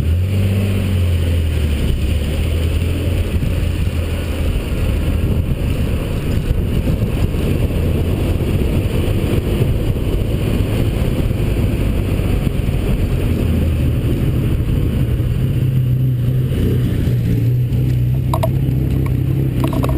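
Holden VP Commodore's V6 engine running loudly and steadily under way, its pitch holding fairly even and then stepping up a little in the second half.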